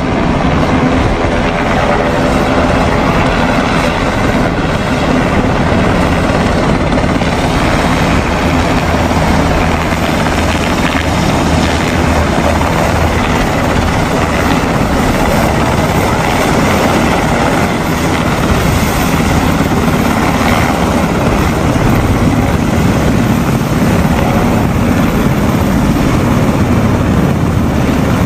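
Helicopter running, a steady loud noise of rotor and engine.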